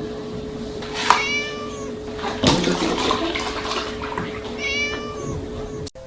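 A cat meowing twice, once about a second in and again near the end, each a short call falling in pitch, over a steady hum and some noisy rustling.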